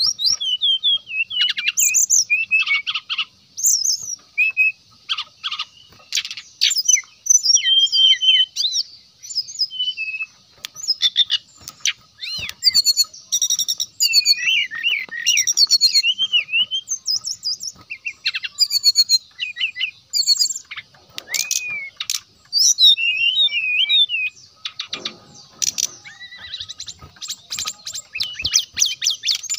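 Brown-chested jungle flycatcher (sikatan rimba dada coklat) singing: a fast, varied song of high whistled notes that slur up and down, mixed with rapid chattering trills, delivered in phrases with short pauses between them.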